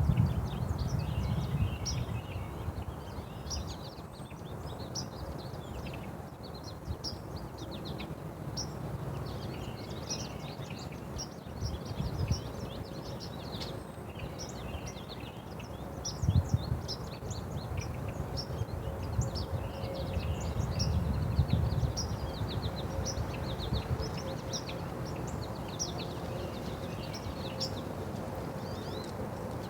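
Small songbirds chirping continually, many short high calls overlapping and coming several a second. A low rumble of noise underneath swells now and then, loudest at the start and twice in the second half.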